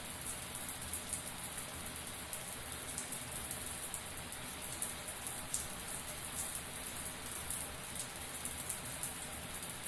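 Shower water spraying and pattering steadily, with many small drop ticks in a dense, even patter.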